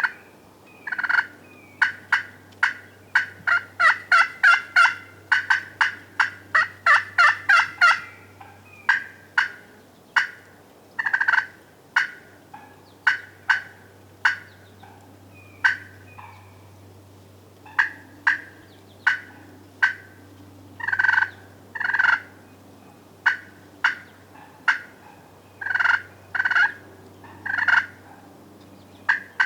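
Wild turkeys putting: sharp, short single notes, a fast run of them in the first eight seconds, then spaced out about one a second. It is the alarm putt of turkeys that have spotted something they don't like.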